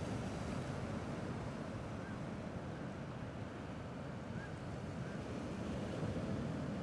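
Steady wash of gentle sea waves, with slow, slight swells in level.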